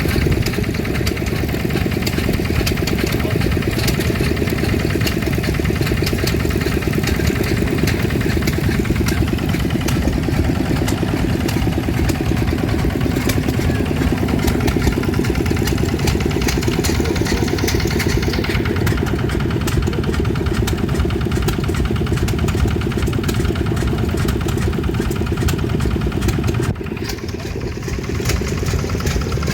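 Vintage stationary engine running steadily, with fast regular firing beats. The sound changes abruptly a few seconds before the end, to a slightly quieter, duller engine sound.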